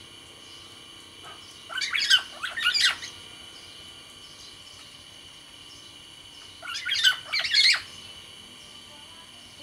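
Black-naped oriole (kepodang) calling: two loud phrases of quick, jumbled notes, about five seconds apart, over a faint steady high hum.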